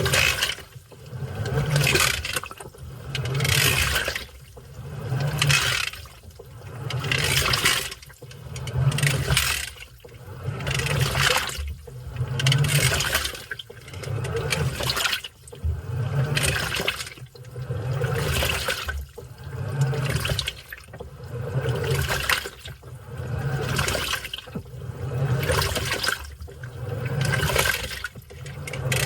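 Washing machine in its wash cycle, water sloshing in the drum in regular surges about every 1.7 seconds as the motor drives the agitation back and forth, with a low motor hum in each surge.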